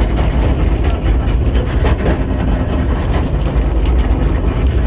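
Small tourist train running through a forest: a steady low engine-and-wheel rumble with frequent short clicks and rattles from the rails and carriages.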